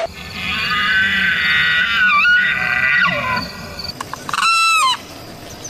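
Animal calls: one long call that bends in pitch partway through, then a shorter call about four and a half seconds in.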